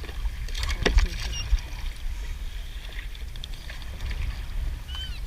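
A few sharp knocks and clatters, bunched about a second in, from handling a crab pot and its catch aboard a kayak, over a steady low rumble.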